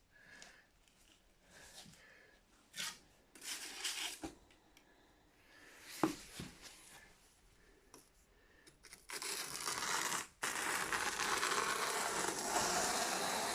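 Scattered short scraping and rubbing noises with a sharp knock about six seconds in, then a continuous harsh scraping, tearing noise from about nine seconds in.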